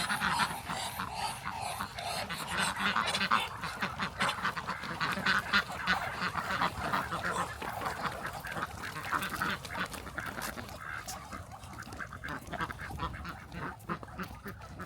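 A flock of Muscovy ducks calling, a breathy, uneven chatter mixed with many small clicks and knocks, thinning out near the end.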